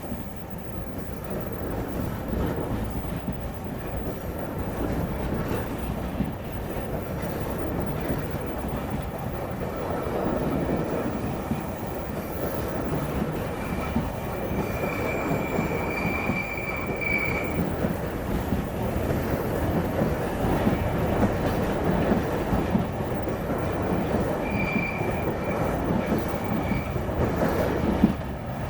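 Passenger train rolling along the track, its wheels rumbling and clattering over the rails, with a high wheel squeal about halfway through and again, more briefly, near the end.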